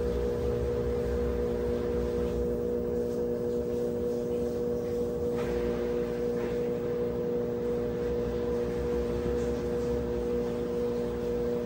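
Brastemp 17 kg washing machine running steadily near the end of its wash cycle: a constant motor hum with a steady whine and a low rumble, unchanging in pitch.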